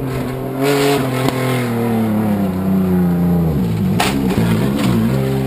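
Off-road competition 4x4's engine running hard as it comes up the dirt track and passes close by, its pitch slowly sagging and then dipping and wavering with throttle changes. A sharp click about four seconds in.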